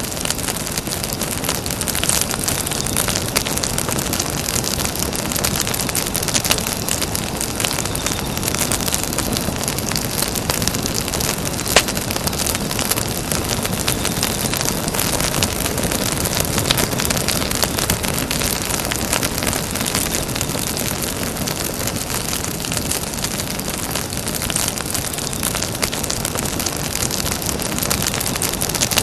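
Campfire burning: a steady rush of noise full of small crackles and pops, with one sharper pop about twelve seconds in.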